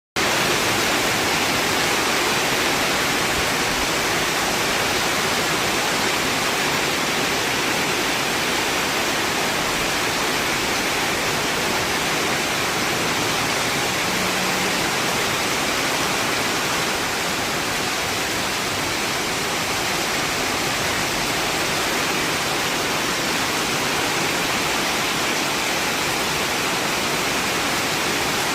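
Rain pouring down steadily, an even rushing noise with no breaks.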